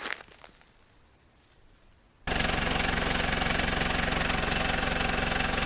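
A few faint rustles and crackles, then, about two seconds in, an engine suddenly comes in loud, running steadily with an even low hum and a hiss.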